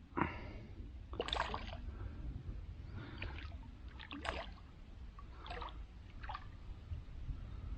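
Water splashing and trickling in about six short bursts, with a steady low rumble underneath.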